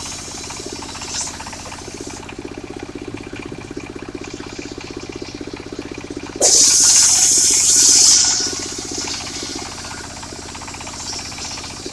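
The engine of a mobile circular sawmill running steadily, with a loud hissing rasp for about two seconds a little past the middle as the circular saw blade cuts into wood.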